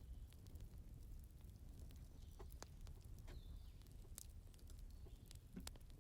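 Burning firewood crackling faintly: scattered, irregular sharp pops over a low steady rumble, with a few short falling whistles.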